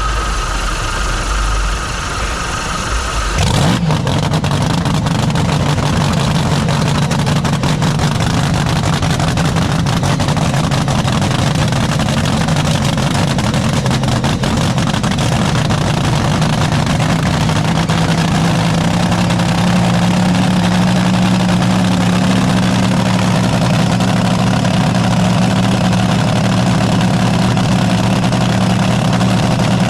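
Restored 1960s top fuel dragster's supercharged engine being started: a steady whine for a few seconds, then the engine fires about three and a half seconds in and runs at a loud, steady, deep idle that lifts slightly in pitch partway through.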